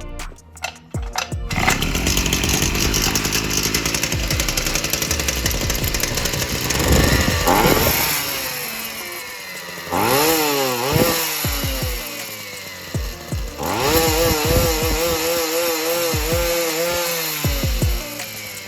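Oleo-Mac Sparta 37 brushcutter's small two-stroke engine running and being revved: a steady run, a rev that rises and falls, a sharp rev about ten seconds in that dies back down, then a stretch at high speed whose pitch wavers up and down before it drops near the end.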